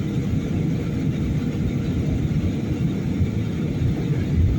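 Steady low rumble of an airliner's cabin noise in flight on the landing approach: engines and airflow over the fuselage heard from inside the cabin.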